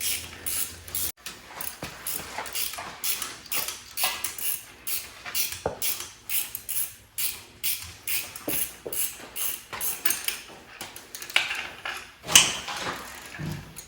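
Hand ratchet wrench clicking in repeated short strokes, working fasteners on an engine, with a sharper metal click about twelve seconds in.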